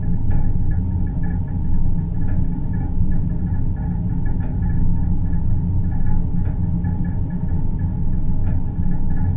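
Produced deep-space ambient soundscape: a loud, steady low rumble and hum with faint clicks about every two seconds.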